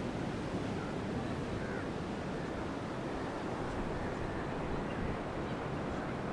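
Steady wash of ocean surf with wind on the microphone, an even rushing noise with no distinct events.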